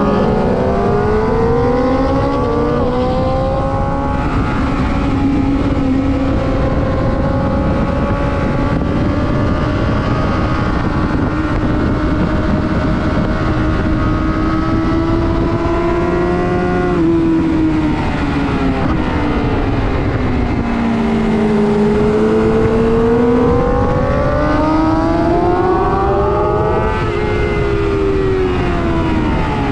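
Sport motorcycle engine lapping a race track at high revs. Its pitch climbs, holds high, then drops sharply about halfway as the bike slows and downshifts. It sweeps back up and drops once more near the end, all over a heavy rush of wind noise.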